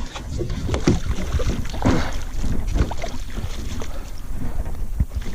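Wind rumbling on the microphone, with irregular knocks and splashes from a hooked bass thrashing beside a kayak.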